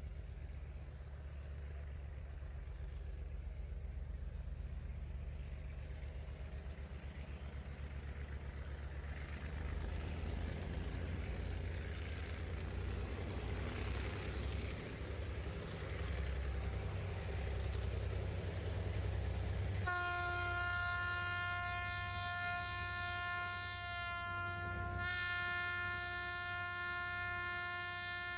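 Diesel freight locomotives rumbling low as a train passes, then a multi-tone locomotive air horn sounding a long chord about 20 s in, with a brief break about 5 s later before it sounds again.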